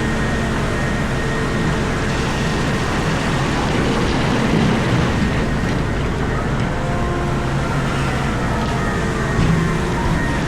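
Komatsu PC4000 mining excavator running, heard from inside the operator's cab: a loud, steady drone with faint whines gliding up and down, swelling briefly about four and a half seconds in and again near the end.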